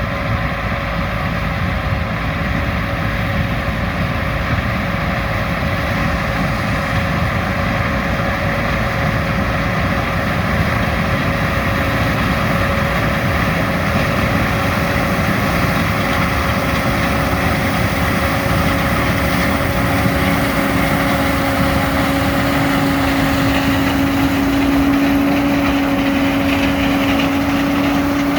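Farm machinery engine running steadily with a constant whine. A second, lower whine comes in about two-thirds of the way through.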